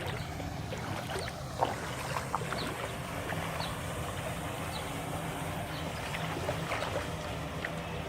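Floodwater sloshing and trickling, with many small splashes scattered throughout, over a low steady hum.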